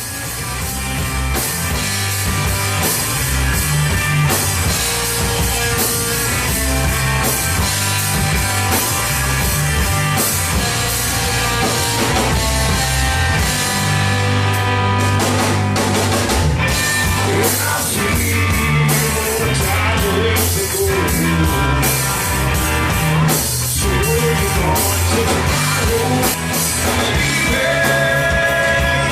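Rock music played by a band, with drum kit and guitar.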